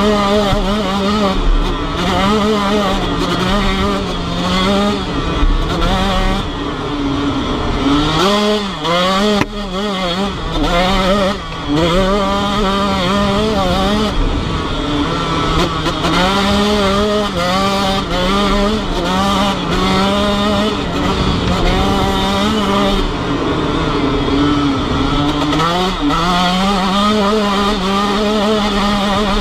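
Motorcycle engine riding hard through traffic, its pitch climbing with each burst of throttle and dropping back again and again as it shifts and eases off, with a sharp drop and quick rises about eight to ten seconds in.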